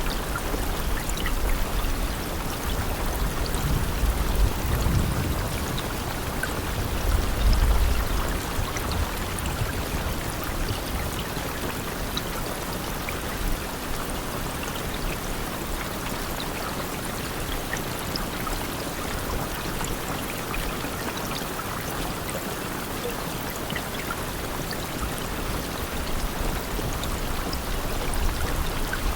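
Steady rain falling, a constant hiss sprinkled with the ticks of single drops. A low rumble swells in the first eight seconds or so, then fades.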